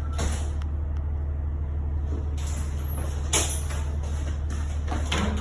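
Several short clicks and knocks over a steady low hum, as of a microwave oven's door and buttons being worked without the oven starting.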